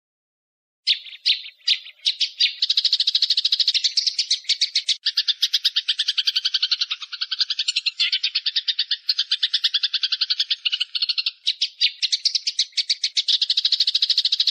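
Recorded bird call: after silence, a few spaced sharp notes about a second in quicken into a fast, even rattle of high notes that keeps going.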